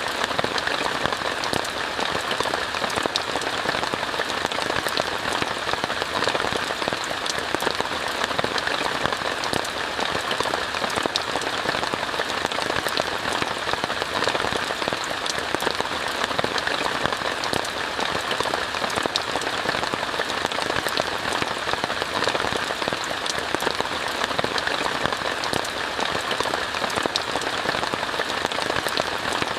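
Steady rain falling on a tent, with many individual drop hits through an even hiss.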